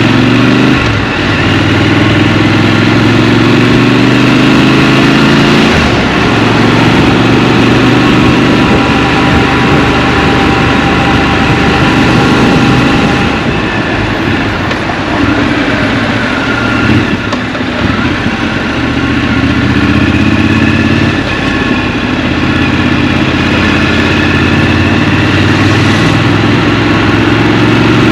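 Scrambler motorcycle engine running on the move, heard from the rider's seat. It eases off for a few seconds about halfway through, then pulls again.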